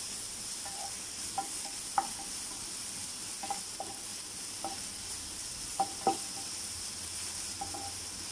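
Crushed garlic and shallots sizzling in coconut oil in a nonstick frying pan. A wooden spatula stirs them, scraping and tapping the pan with light knocks, the sharpest about two seconds in and twice around six seconds in.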